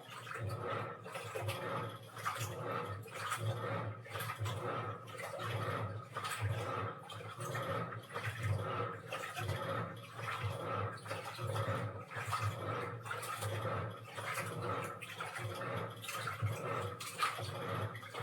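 Washing machine in its wash cycle, the drum turning and water sloshing inside in swells about once a second or so, over a steady motor hum.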